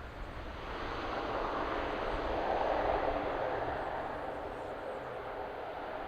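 Airplane passing, its engine noise swelling to a peak about halfway through and then easing off.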